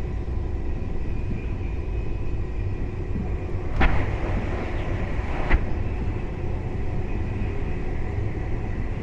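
KTX high-speed train running at speed: a steady low rumble with a faint whine held on a few steady tones. Two sharp knocks come about a second and a half apart, near the middle.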